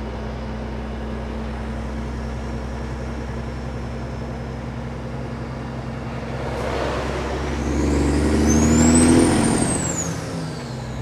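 Kenworth W900 diesel engine running steadily under the cab. About seven seconds in it swells louder for a few seconds, with a high whistle rising and then falling, as the engine pulls through a wide turn, then it settles back.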